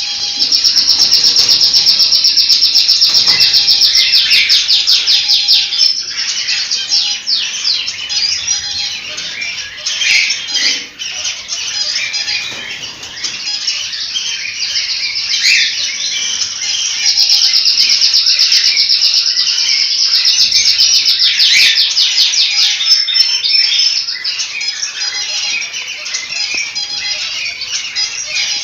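Cockatiels chirping and calling together in a dense, continuous chorus. Two loud stretches of fast, rapidly repeated high notes stand out, one soon after the start and another past the middle.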